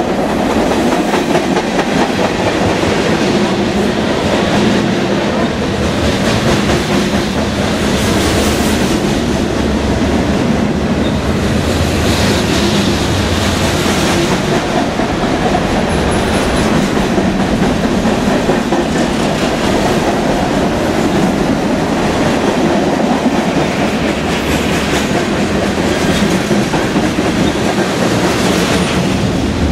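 Freight train's tank cars and boxcars rolling past close by at speed: a steady, loud noise of wheels running on the rails.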